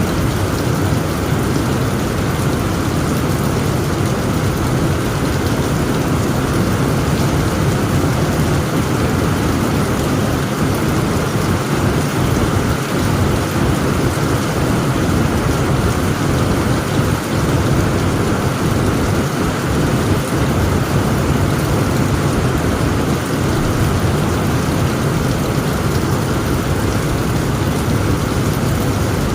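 Heavy rain falling steadily on a tent roof, with a constant low rumble of thunder beneath it.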